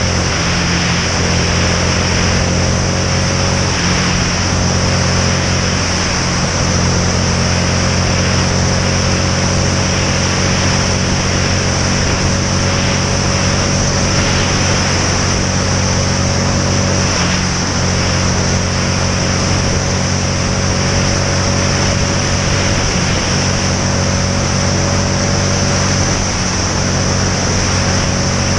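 Motorcycle riding at a steady speed: the engine runs evenly at constant revs under a continuous rush of wind and road noise.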